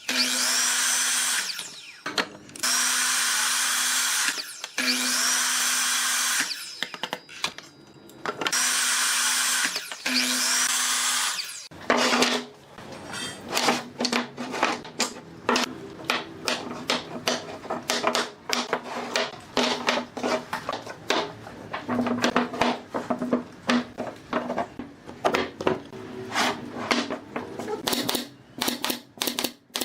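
A power tool whirs in about five short bursts, each spinning up when triggered. From about twelve seconds in, it gives way to a quick, irregular run of sharp clicks and taps.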